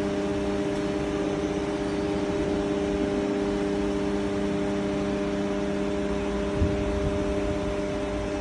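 CNC machine running steadily: an even mechanical hum with several held tones over a hiss.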